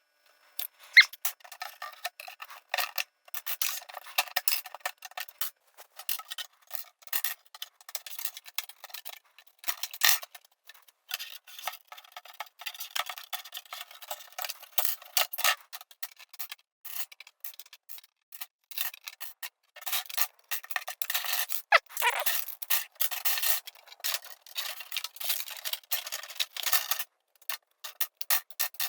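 LEGO plates being pried apart and pulled off a base plate by hand: a dense, irregular run of small plastic clicks, snaps and scraping as the pieces rub and separate, with one short squeak about two-thirds of the way through.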